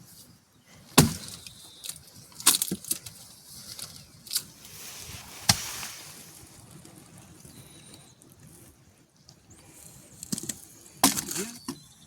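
Firewood being chopped with an axe: a series of sharp, irregularly spaced cracks and knocks of wood being struck and split.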